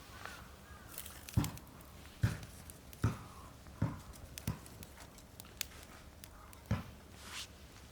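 Wood fire crackling in a metal fire pit, with sharp small pops and half a dozen dull knocks spaced under a second apart.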